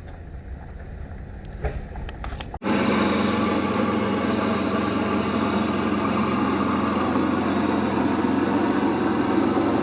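A faint, distant engine hum with a few clicks, then, after a sudden cut, the steady, loud running of a Predator 212 single-cylinder go-kart engine heard close up.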